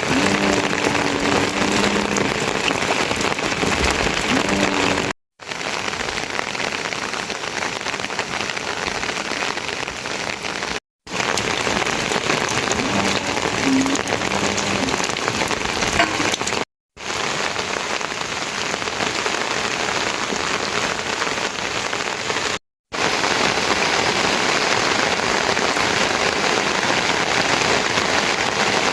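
Heavy rain falling, a steady dense hiss of drops on surfaces. The sound cuts out briefly and comes back about every five to six seconds.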